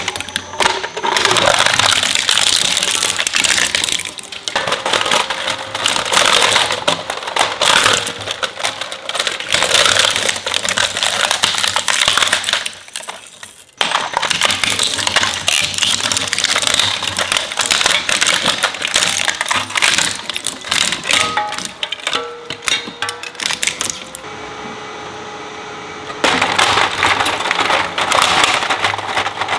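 Industrial shredder crunching up plastic toys: dense cracking, snapping and clattering of pieces being torn apart. It breaks off suddenly near the middle. Later the crushing gives way for about two seconds to a quieter, steady hum before the cracking starts again.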